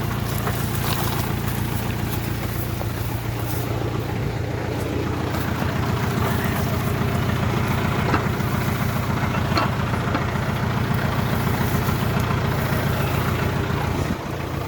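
Tractor engine running steadily at an even speed while clearing a field, with a few faint clicks over it. The engine note dips briefly near the end.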